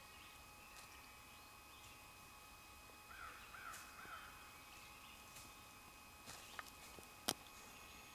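Quiet woodland background with a bird giving three short calls about three seconds in. A few faint ticks follow, then one sharp click a little after seven seconds, the loudest sound.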